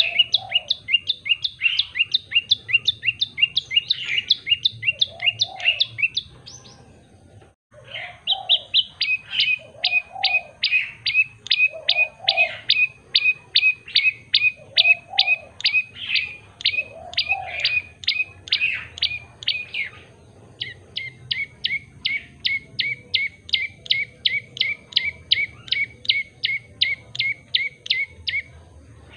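Common tailorbird singing: long runs of sharp, quickly repeated notes, about four a second, in three bouts with short pauses about six and twenty seconds in.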